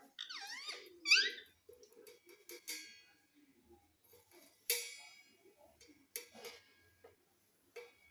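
Pet parrot calling: a quick run of rising-and-falling whistled chirps in the first second and a half, then a few short harsh squawks spaced a second or two apart, the loudest about halfway through.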